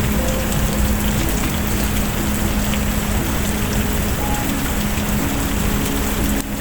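Steady rain hissing, with scattered small crackles and ticks, as in a rain-and-fireplace ambience. Faint held low tones sit underneath. The whole sound dips briefly just before the end.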